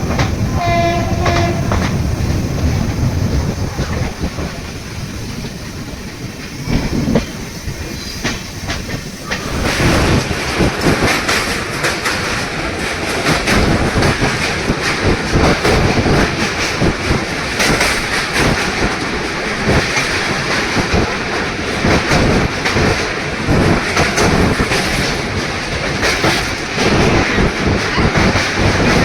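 Train running on rails, a short horn sounding at the start. About ten seconds in, the wheel clatter over the rail joints grows louder and denser, and it carries on steadily from there.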